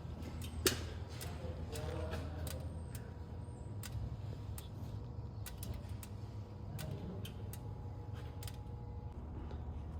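Lexus LS460 V8 idling with a steady low hum and irregular light ticks and clicks over it. The engine is one that the mechanic has found to be misfiring and hesitating.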